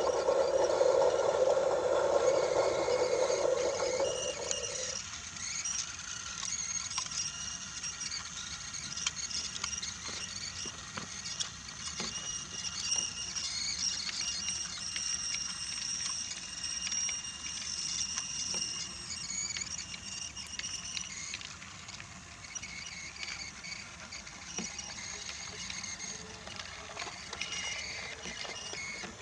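Battery-powered Brio toy train running on wooden track: a small electric motor whirring, with light clicks of the wheels over the track joints. A louder mid-pitched hum in the first few seconds stops suddenly about five seconds in, leaving a fainter, higher whir.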